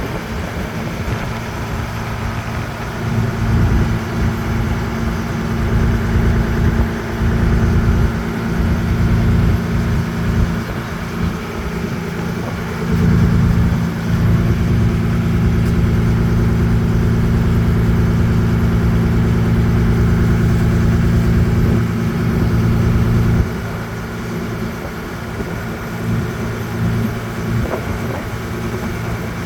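A boat's engine running steadily with a low hum. It grows louder about halfway through and drops back suddenly about ten seconds later.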